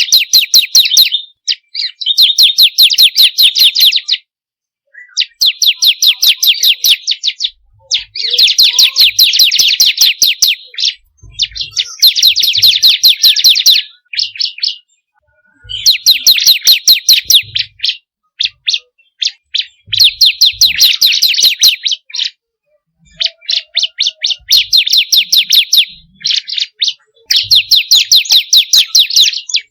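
Bar-winged prinia (ciblek kristal) singing: repeated bursts of rapid, high-pitched chipping notes. Each burst lasts about two seconds, with short pauses between them.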